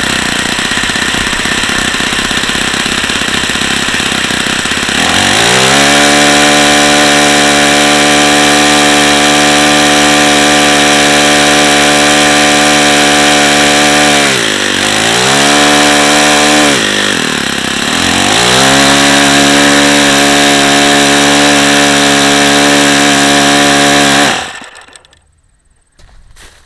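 Saito FA-45 four-stroke model glow engine running under a propeller. It runs raggedly at first, then about five seconds in settles at a steady high speed; twice its pitch drops briefly and climbs back, and a couple of seconds before the end it cuts off suddenly. It is a tired, worn-out engine whose crankshaft bearings are shot, audible in its sound.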